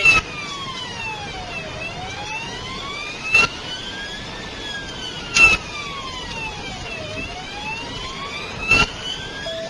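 Police car siren wailing, its pitch rising and falling slowly over several seconds, with a few short loud clicks over it.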